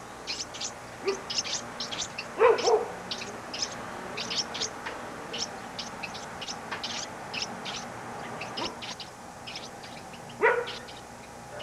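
Nestling songbirds cheeping: a rapid string of short, high-pitched chirps. Two louder, lower-pitched calls cut through, one about two and a half seconds in and one near the end.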